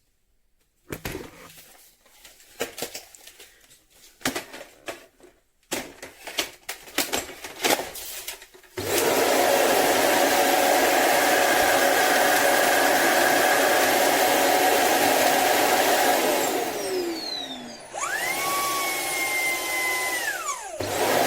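Shark PowerDetect vacuum system: several seconds of plastic clicks and knocks, then its motor starts about nine seconds in and runs with a loud steady whine. Near the end it winds down with a falling pitch, spins back up with a rising whine, and briefly cuts out again.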